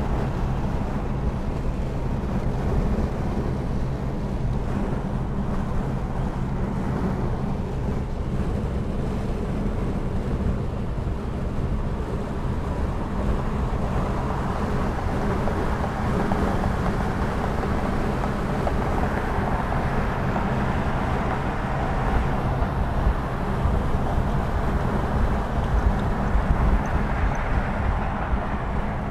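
Steady engine drone and tyre and wind noise of a vehicle driving on a highway, growing a little fuller about halfway through.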